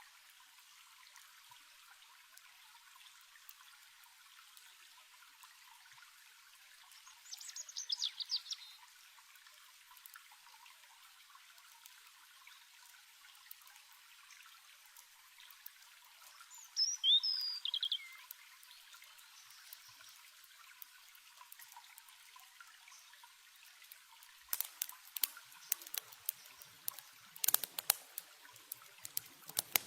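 A stream trickling as a faint, steady hiss, with two short bursts of quick, falling songbird chirps. Near the end, sharp irregular crackles of a campfire start up.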